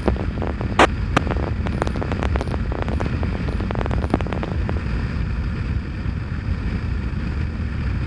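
Motorcycle running on the road with wind noise on the microphone, steady throughout, with scattered sharp clicks and crackles in the first half.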